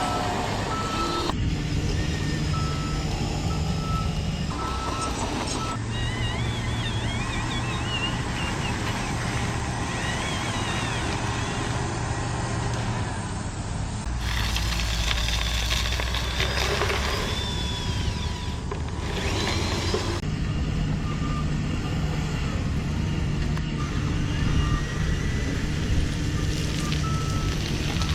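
Radio-controlled construction machines working, with a steady low engine-like hum that changes abruptly at several points. An electronic reversing beeper sounds a few seconds in and again near the end.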